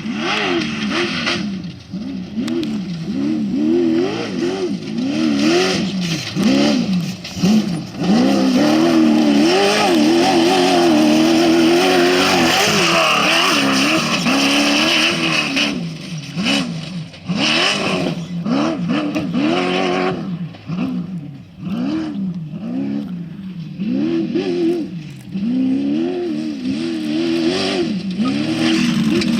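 Off-road race vehicle's engine revving hard, its pitch climbing and dropping again and again as the driver goes on and off the throttle, with a longer stretch held at high revs partway through.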